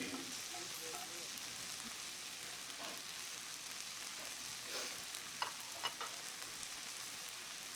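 Food frying in a pan with a steady sizzle. Two short clicks come about two-thirds of the way through.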